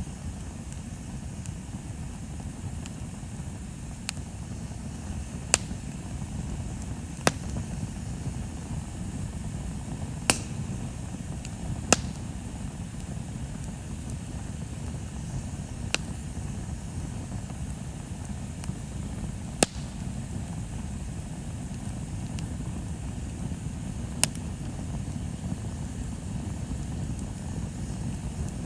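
Wood bonfire burning: a steady low rumble under sharp crackling pops from the burning wood, seven or so loud pops at irregular intervals a few seconds apart.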